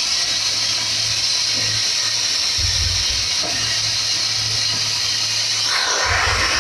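Steam hissing steadily from a homemade steam boiler, with a low hum underneath and two brief low rumbles, one near the middle and one near the end.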